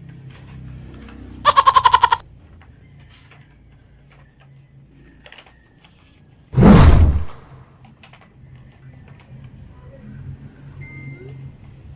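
A short, loud, quavering bleat-like call lasting under a second, then about five seconds later a louder half-second burst of noise, over a faint low hum.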